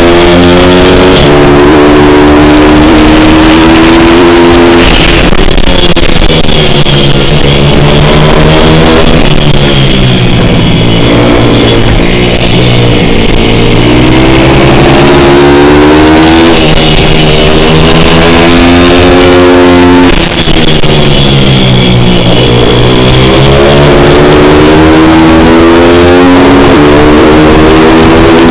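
Single-cylinder four-stroke pit bike engine revving hard on track, climbing in pitch and dropping off sharply several times as it accelerates out of corners and brakes into them. Very loud throughout.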